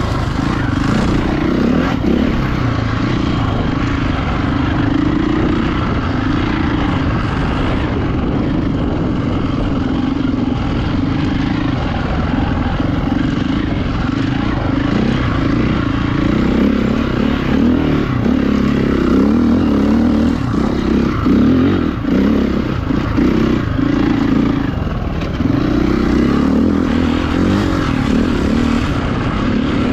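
Enduro motorcycle engine running, heard close from the bike itself. The note rises and falls with the throttle, with a few brief dips in the second half.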